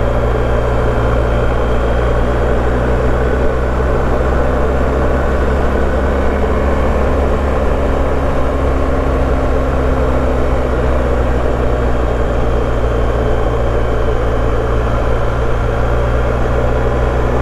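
BMW R1250GS boxer-twin engine running at a steady cruise, revs held constant, under a steady rush of wind and road noise.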